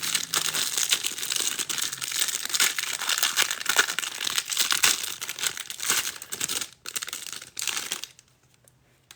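Plastic wrapping on trading card packs being torn open and crinkled by hand: a steady crackling that stops about eight seconds in.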